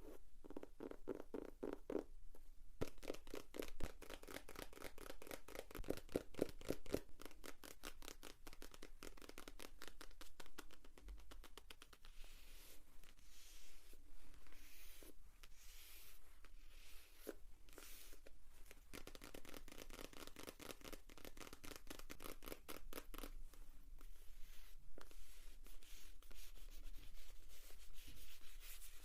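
Rapid light tapping on paper notebooks, many taps a second. For a few seconds in the middle it turns into softer, scratchier brushing, and then the fast tapping returns.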